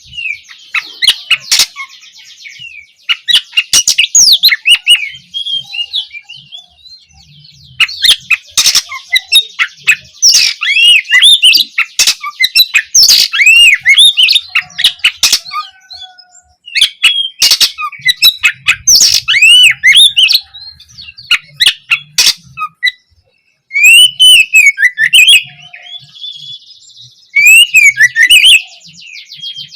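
Oriental magpie-robin (kacer) singing loud, varied phrases of quick arching whistles mixed with harsh buzzy rattles and sharp clicks, with short pauses between phrases.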